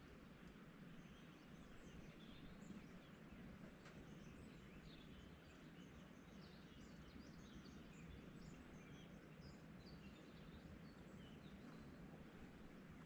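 Faint chorus of small songbirds, many short high chirps overlapping throughout, over a steady low background hum.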